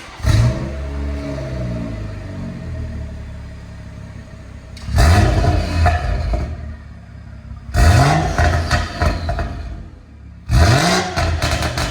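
BMW 340i's B58 turbocharged straight-six running through a full 80 mm stainless steel Scorpion exhaust. It starts up and settles to idle, then is revved three times in short blips that rise and drop back to idle.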